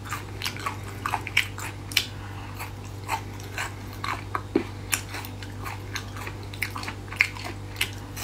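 Close-up chewing and biting of spicy braised beef skin strips: irregular crisp clicks and crackles, several a second, with wet mouth sounds. A steady low hum runs underneath.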